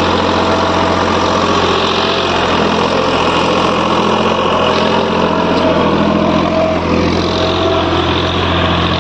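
Massey Ferguson 8055 tractor's 50 hp diesel engine running steadily at a constant speed.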